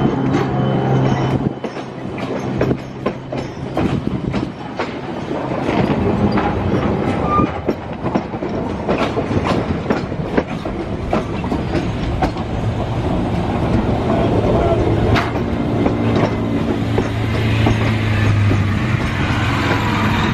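A train passing on station tracks, its wheels clicking irregularly over rail joints and points, over a steady low hum.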